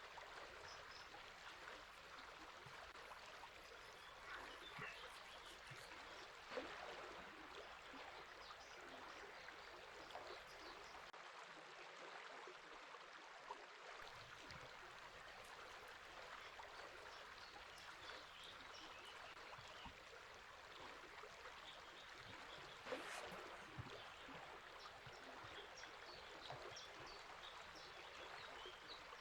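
Faint, steady rush of a river flowing, with a few scattered short bird chirps over it.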